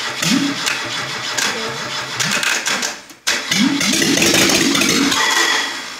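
Bare carbureted car engine on a test stand being cranked by its starter motor in two attempts: a first stretch of cranking, a brief break about three seconds in, then a second, louder attempt whose pitch rises and holds before it fades near the end.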